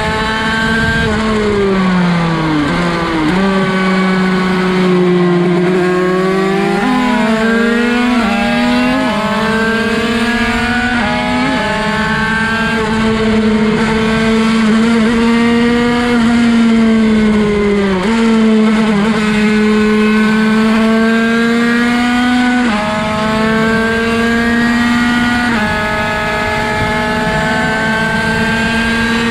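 Derbi 50cc two-stroke race engine heard on board, revving high: its pitch falls as the bike slows about two seconds in, then climbs and jumps in sudden steps at the gear changes, holding a high-revving note between them.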